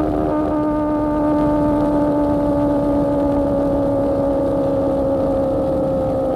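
Sportbike engine running through an AR GP1R aftermarket exhaust at steady high revs, its drone easing slowly lower in pitch, with wind rumble underneath.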